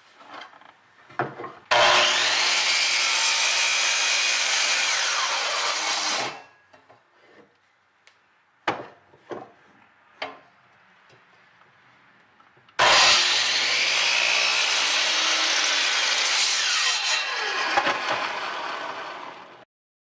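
Power saw cutting through a spalted oak mallet blank, twice, each cut lasting about five to seven seconds, with a few sharp knocks of the wood being handled in the quiet between.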